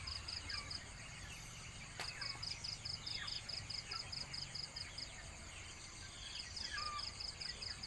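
Outdoor nature ambience: an insect, cricket-like, chirping in rapid, even pulses at a high pitch from about two seconds in, with short falling bird chirps now and then.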